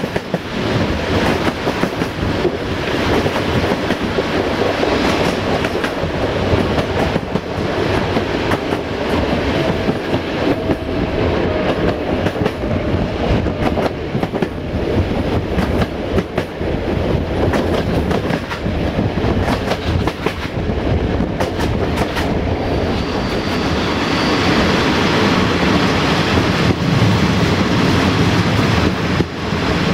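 Passenger train running on jointed track, heard from a coach window: steady rolling noise with the wheels clicking over rail joints. A brief high squeal comes about three-quarters of the way through, and after it the running grows louder.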